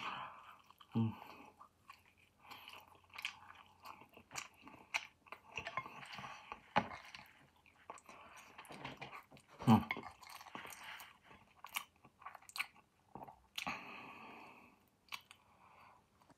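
Close-miked chewing and biting of roast chicken and rice, in irregular bursts with short clicks between.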